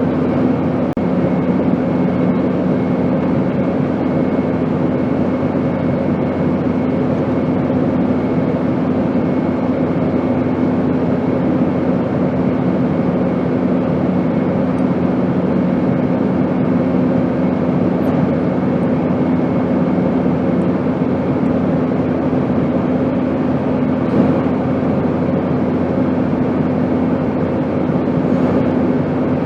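Airplane noise: a steady, unbroken drone with a low hum running through it.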